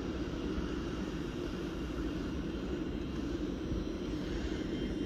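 GWR Hitachi Intercity Express Train (Class 800-series) at the platform, giving off a steady, even drone.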